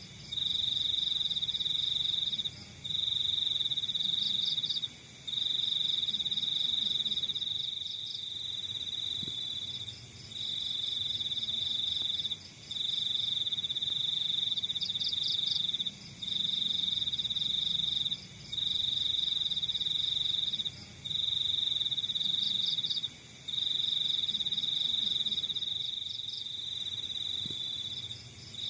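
Crickets calling: one high, steady trill in bouts of two to four seconds with short breaks between them, and fainter rapid chirping behind it.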